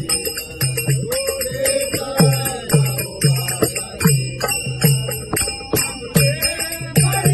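Bhajan accompaniment: a hand drum beating a steady rhythm of deep strokes, with small hand cymbals (taal) jingling on the beats.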